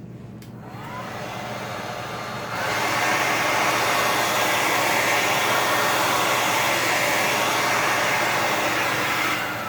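Hair dryer blowing air across wet acrylic paint. It runs softer at first, gets suddenly louder about two and a half seconds in, holds steady, and stops near the end.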